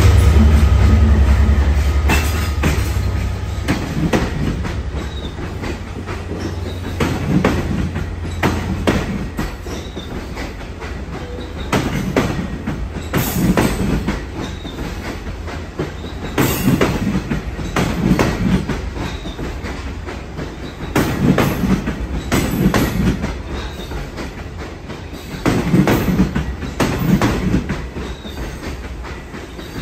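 A Long Island Rail Road diesel locomotive's engine drone fades over the first few seconds as it passes. Then bilevel passenger coaches roll slowly by, their wheels clattering over rail joints in a cluster about every four to five seconds.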